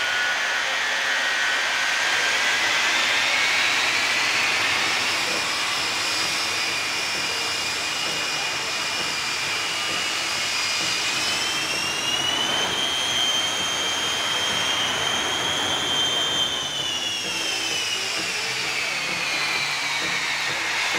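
The three jet engines of the Shockwave jet semi-truck running hard, a loud steady rush with a high whine. The whine climbs in pitch over the first few seconds, climbs again about twelve seconds in, holds, then falls over the last few seconds.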